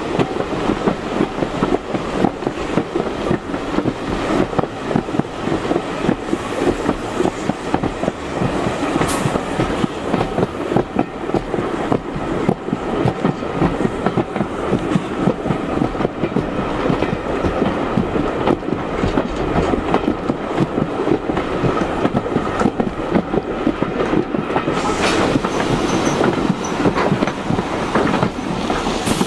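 Railway carriage running along the line, heard on board: a steady rumble and rattle with wheels clicking over rail joints.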